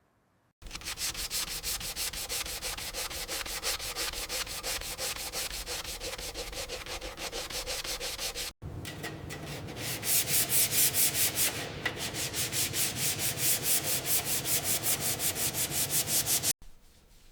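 Hand sanding in quick, steady back-and-forth strokes, about three a second, in two stretches joined by an abrupt cut. The second stretch is louder and brighter.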